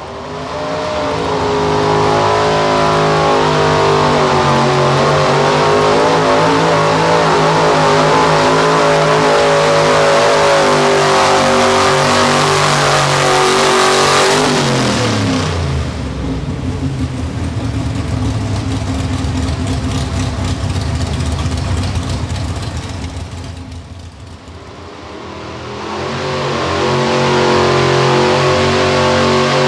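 Pro stock four-wheel-drive pulling truck's engine running at high revs under load. About halfway through its revs fall away, and it runs lower and rougher. Engine revs climb again near the end.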